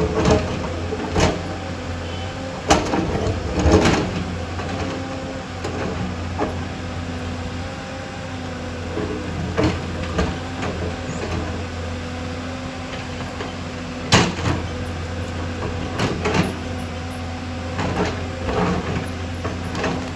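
Excavator's diesel engine running steadily, with irregular sharp knocks and clanks on top.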